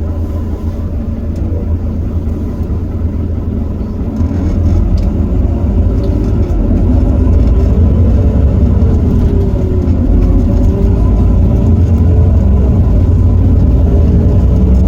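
Heuliez GX327 city bus's Iveco Cursor 8 six-cylinder diesel engine under way. It gets louder about four seconds in, and its pitch climbs, drops and climbs again as the bus accelerates through the ZF Ecomat automatic's gears.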